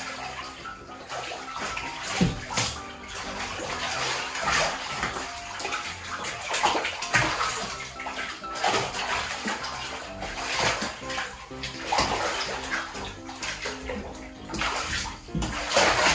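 Bathwater splashing and sloshing as two otters swim and tumble together in a filled tub, with irregular bursts of splashing throughout. Background music plays underneath.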